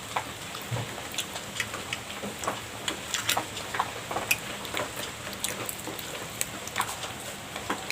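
Close-miked chewing and mouth sounds of someone eating a soft cream pastry: a run of small wet clicks and smacks, irregular, a few each second.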